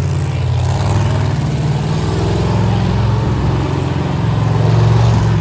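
Monster truck engine running loud and steady, swelling a little near the end.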